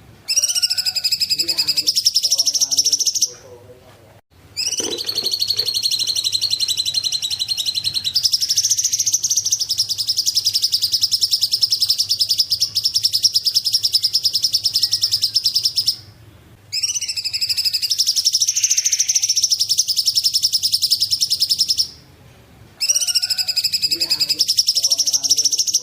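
Cungkok bird singing: a high, very fast trill held for several seconds at a time, broken by short pauses, with the pitch stepping up partway through the long middle phrase.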